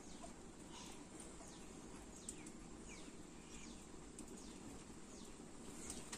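A bird chirping faintly over a low steady background: a long run of short chirps, each falling in pitch, repeated about twice a second.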